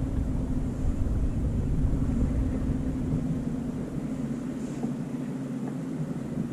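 A boat's engine running with a steady drone, with wind rumbling on the microphone.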